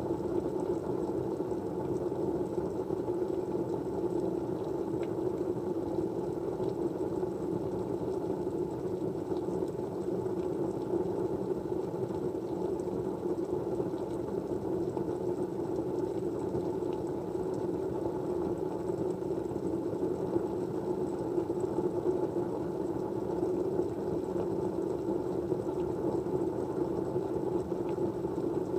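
Steady white noise: an even, low rushing hiss with no breaks or changes, and a faint high whine held above it.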